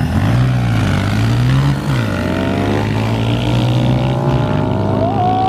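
Dirt bike engines revving hard at full throttle in a short drag race, the pitch climbing, dropping about two seconds in, then climbing again with a higher whine rising toward the end.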